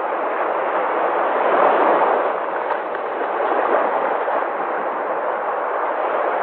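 Sea waves washing on the shore: a steady rushing surf noise that swells and eases slowly.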